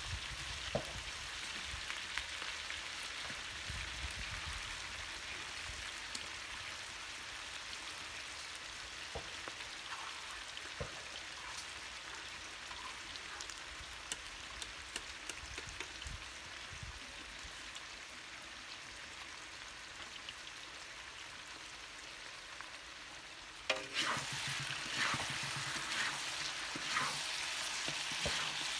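Food frying and sizzling in a pan. Near the end the sizzling turns suddenly louder, with scraping knocks from stirring.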